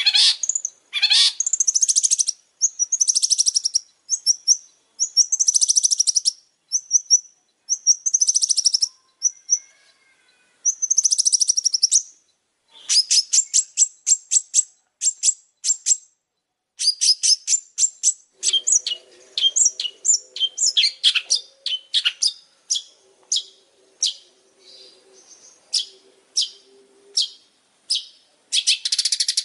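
Long-tailed shrike (pentet) singing vigorously. Harsh, scratchy high phrases come first, then from about halfway the song turns into fast runs of short clipped chattering notes.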